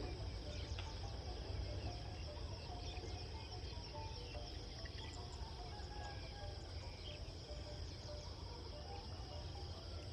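Rural outdoor ambience: a steady high-pitched insect chorus with scattered short bird chirps over a low rumble.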